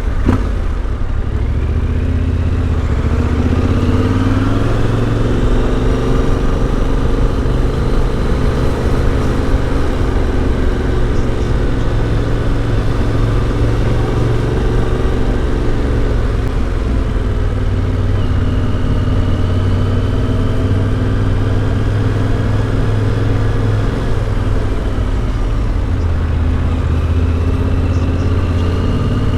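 Yamaha Ténéré 700's CP2 parallel-twin engine through an Akrapovic exhaust, running under way on the road. It picks up revs a few seconds in, then holds a fairly steady cruise with small changes in pitch.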